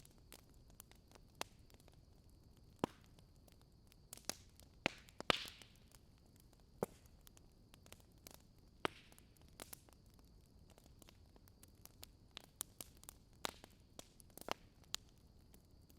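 Campfire of burning wood crackling: irregular sharp pops and snaps over a faint hiss, the loudest cluster of pops about five seconds in. A faint steady high-pitched tone runs underneath.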